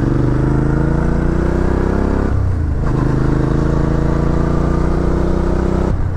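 Suzuki V-Strom 650 XT's 645 cc V-twin engine pulling hard as the motorcycle accelerates, its pitch climbing steadily, falling as the rider shifts up about two and a half seconds in, then climbing again to another upshift near the end.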